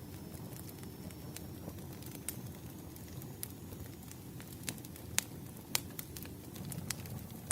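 Wood fire crackling: irregular sharp pops and snaps of burning firewood over a low steady rumble.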